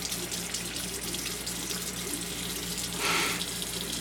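A faucet running in a steady stream into a sink, with a brief louder splash about three seconds in.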